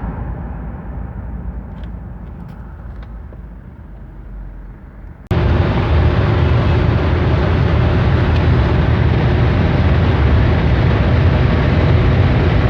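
Mitsubishi Pajero 3.2 DI-D four-cylinder turbodiesel on the move: engine and road noise fading steadily quieter over the first five seconds. Then an abrupt jump to loud, steady engine, wind and road noise at speed.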